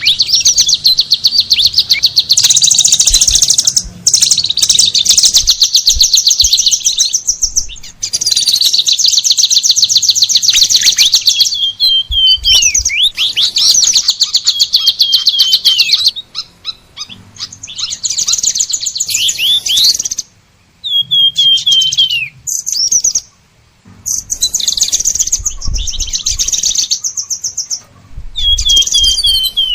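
Songbirds singing: long runs of fast, high chattering trills, broken by short downward-slurred whistles, with brief pauses more often in the second half.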